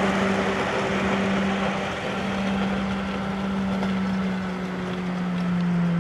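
G-scale PIKO Taurus model electric locomotive running on its garden-railway track: a steady electric hum with a running-noise haze, the hum dropping a little in pitch near the end.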